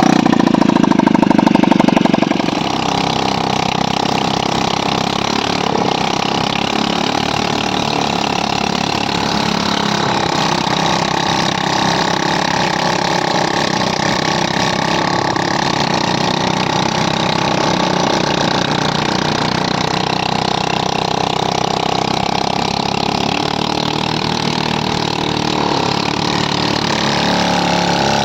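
ATV quad bike engine running steadily during a ride, louder for the first couple of seconds.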